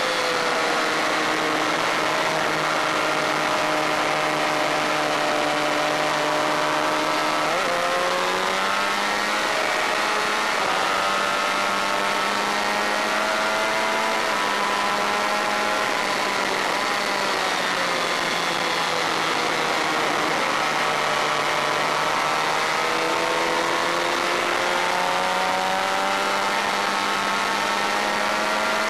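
Honda VFR400 racing motorcycle's V4 engine at full race pace, its pitch falling as the bike slows, jumping back up about 8 seconds in, climbing, dropping again a little past the middle, then climbing steadily near the end. Over it runs a steady rush of wind noise.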